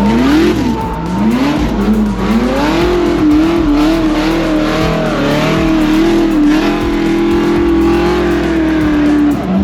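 Motorcycle engine revving: the pitch climbs and drops several times in the first couple of seconds, then holds high and wavers for most of the rest before falling near the end.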